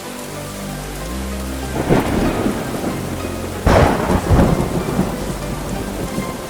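Thunderstorm sound effect: steady rain with two thunder crashes, the first about two seconds in and the louder one near the middle, over soft background music with held notes.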